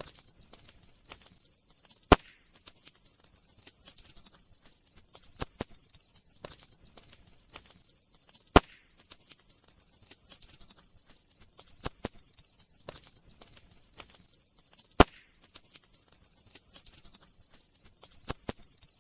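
Campfire crackling: scattered small crackles and snaps over a faint hiss, with three sharp, louder pops about six seconds apart.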